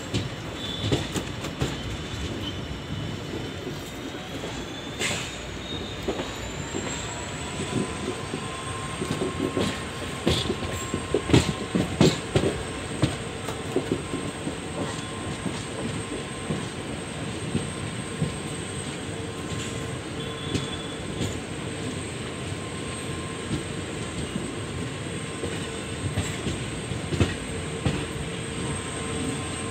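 Express passenger train running, heard from on board: wheels clacking and knocking over rail joints, with steady whining tones that rise in pitch over a few seconds early on and then hold level.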